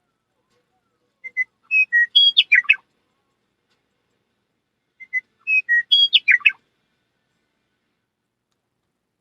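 A short bird-song phrase of a few clear whistled notes, then a quick burst of chirps, given twice about four seconds apart.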